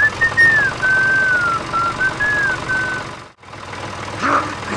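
A whistled tune, one wavering high tone rising and falling for about three seconds, which cuts off abruptly. A short animal call follows near the end.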